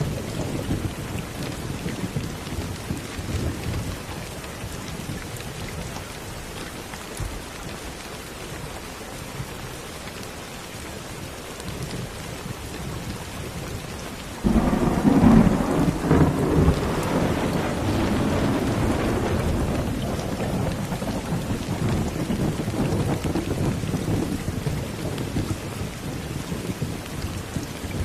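Steady rain with rumbling thunder. One low rumble fades early on, and a louder clap of thunder breaks in suddenly about halfway through, then rolls away over several seconds.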